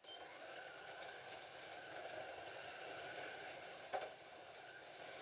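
Several Scalextric slot cars running on a plastic track: a steady whirring of their small electric motors and tyres that starts abruptly, with a single click about four seconds in.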